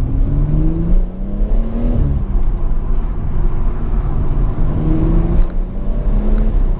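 BMW M140i's turbocharged 3.0-litre straight-six through an M Performance exhaust, heard inside the cabin with the windows slightly down: the engine note climbs under acceleration, drops at a gear change about two seconds in, then climbs again, with wind noise underneath.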